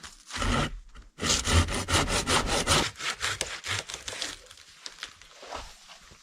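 Saw cutting through wood in quick back-and-forth strokes: a short burst, then a steady run of rapid rasping strokes that thins out and stops a little past the middle.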